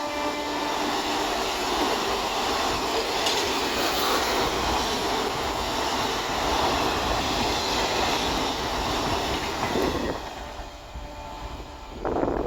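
Express train passing at speed: a steady rushing noise of wheels on the rails, with the tail of its horn fading out in the first second or so. The noise dies away near the end.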